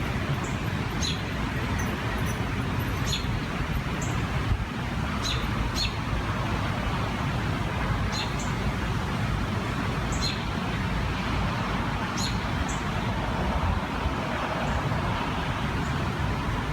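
Steady low rumbling rush of wind in trees and a distant train. Over it a bird gives short high chirps, often two in quick succession, every second or two.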